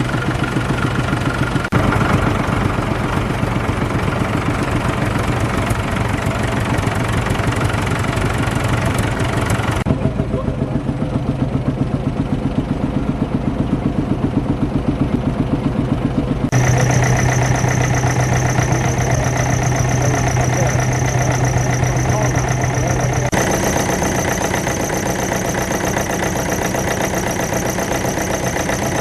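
Vintage tractor engines running at idle with an even, rapid chuffing beat. The sound changes abruptly several times as one engine gives way to another.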